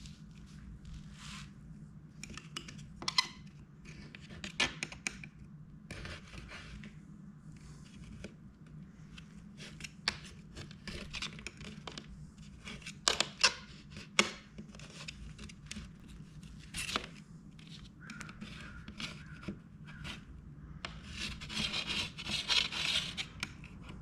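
Brittle old putty tape being scraped off a vintage camper shell window: irregular scratching strokes with sharp clicks, growing denser near the end, over a steady low hum.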